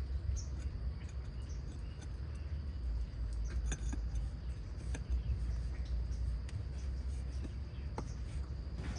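Steady low rumble with a few faint clicks and taps.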